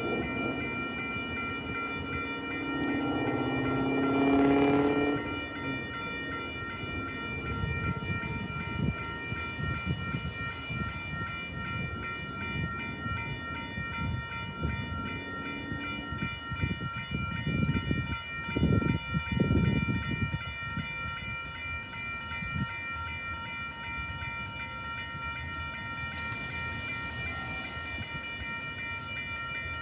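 A train horn sounding for about three seconds early on, then a train rumbling and clattering along the rails, loudest about 17 to 21 seconds in, while a steady high ringing of grade-crossing bells goes on throughout.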